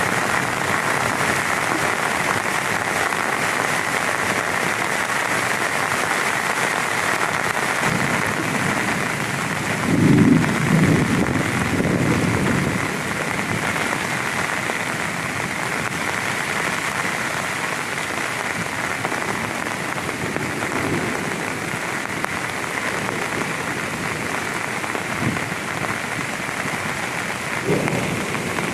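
Heavy rain falling steadily, with a rumble of thunder about a third of the way in and a few fainter rumbles later.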